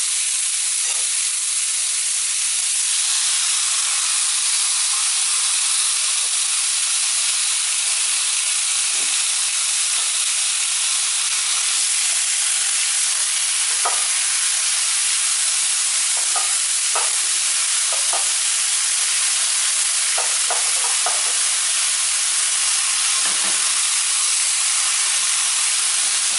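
Marinated partridges sizzling in hot oil in a heated tagine: a steady frying hiss with occasional small pops and crackles.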